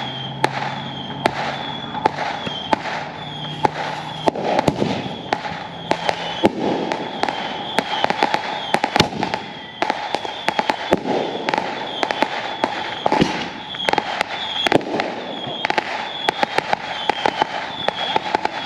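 Consumer fireworks going off in quick, irregular succession: many sharp bangs and pops over a continuous crackling din. A short high chirp repeats at a steady pace, a little under once a second.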